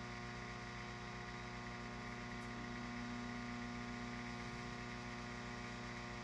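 Microwave oven running with a steady electrical hum and buzz, the unit overheating and giving off smoke.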